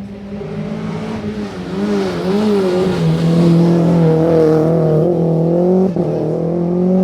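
Rally car on a special stage, its engine growing louder as it approaches. The engine pitch wavers with the throttle, drops about three seconds in, then climbs as it accelerates, with a brief break about six seconds in.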